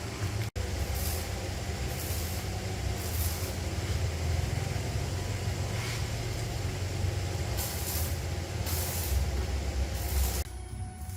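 A motor running steadily with a low hum, with short bursts of hissing air about every second or so.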